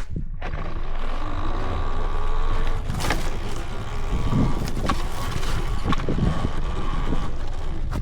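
Talaria Sting R MX4 electric dirt bike riding: the motor gives a steady high whine over a low rumble, with a few short knocks. The whine fades just before the end.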